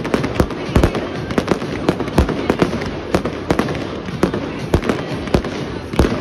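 Fireworks display: a rapid barrage of sharp bangs, several a second, over a steady dense crackle from the launches and bursts.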